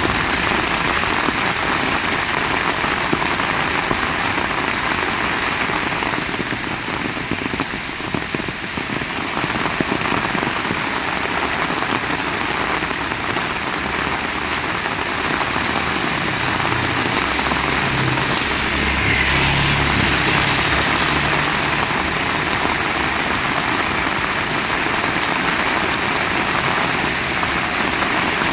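Heavy rain pouring steadily, with a low hum rising under it for several seconds in the middle.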